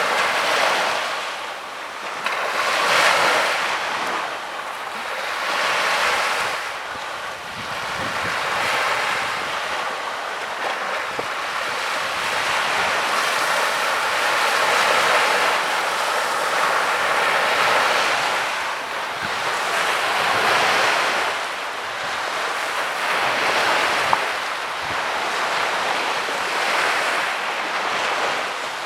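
Small waves breaking and washing up the beach, the surf hiss swelling and fading every few seconds, with some wind on the microphone.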